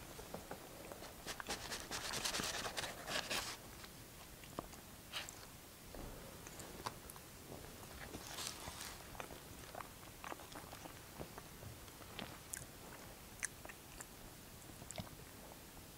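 Close-up eating sounds: a person chewing and biting a mouthful of burrito, with moist mouth clicks. A denser run of crackly scraping a second or two in, as a plastic knife and fork work in a foam takeout box.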